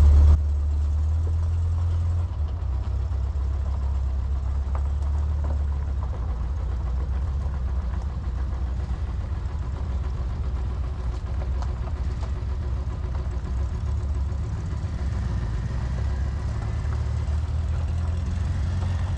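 A vehicle engine running steadily, a low, even rumble with no change in speed.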